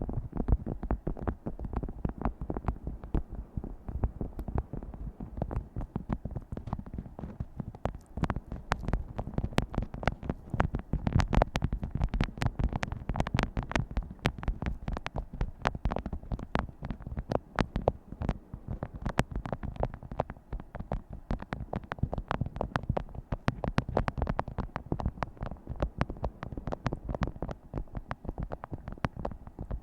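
Fingers tapping rapidly on objects, many quick light taps a second with no pauses.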